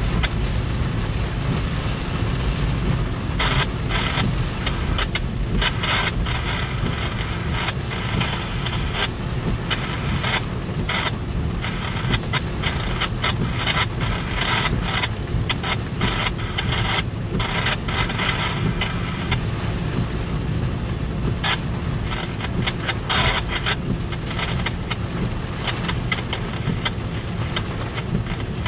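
Heavy rain pattering on a car's roof and windshield, heard from inside the car, over the steady low rumble of a passing intermodal freight train.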